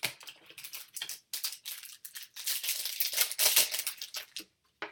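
Trading cards and their plastic or foil packaging being handled: a run of crinkling and rustling with quick clicks, densest in the middle and fading near the end.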